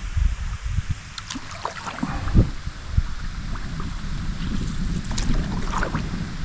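Canoe under way: paddle strokes in the water with a few sharp knocks against the hull, over a steady low rumble of wind on the microphone.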